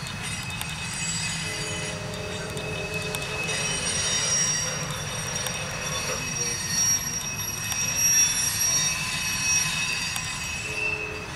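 Loaded coal hopper cars of a freight train rolling past: a steady low rumble under a high-pitched wheel squeal that holds a few steady tones, loudest about eight seconds in.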